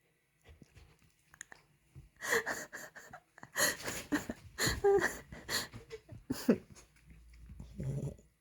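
Border collie puppy making a run of short, breathy vocal noises over a few seconds, then a lower, longer sound near the end.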